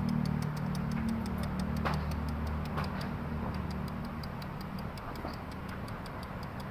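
Fast, evenly spaced high-pitched ticking, about four to five ticks a second, over a low hum that fades about three seconds in.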